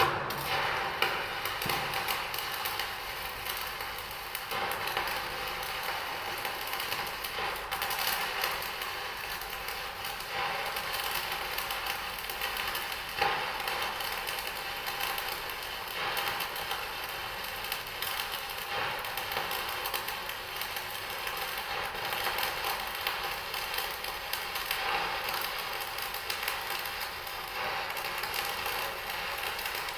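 Stick (arc) welding electrode burning on a vertical corner weld: a steady, dense crackle, with a few louder pops.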